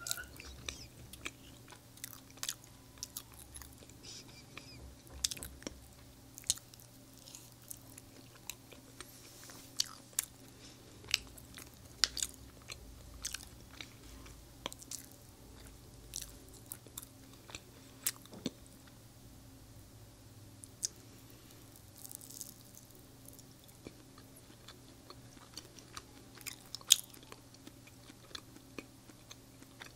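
Close-miked chewing and biting of Indian sweets: irregular mouth clicks and smacks, a few of them sharper and louder than the rest.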